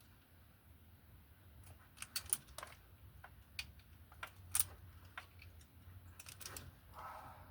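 Hand-work noise from small hardware and tools: scattered light clicks and taps, the sharpest about two seconds in and again halfway through, over a faint low hum.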